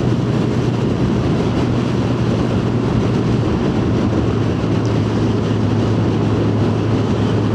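Yamaha FZ1's inline-four engine running at a steady, unchanging pitch while the motorcycle cruises, with a constant rush of wind and road noise.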